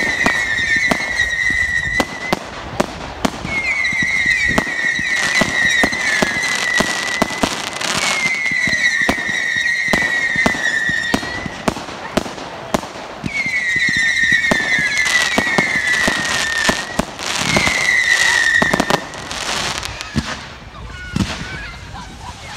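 Fireworks going off: a run of shrill whistling fireworks, about six whistles each lasting a couple of seconds and dropping slightly in pitch, among many sharp bangs and crackles. The bursts thin out and grow quieter near the end.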